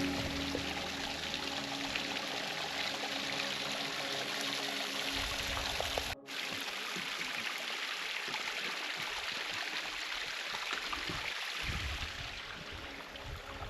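Lightspout Waterfall, dried to a low flow, trickling and splashing over rocks as a steady rush of water. The sound breaks off for a moment about six seconds in.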